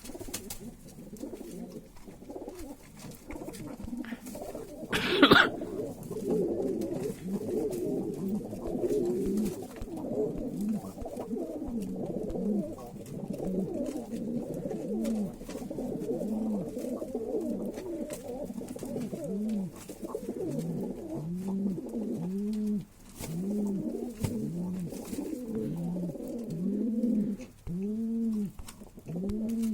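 Several pigeons cooing together, repeated low rising-and-falling coos overlapping one another. About five seconds in there is one brief, loud, sharp sound.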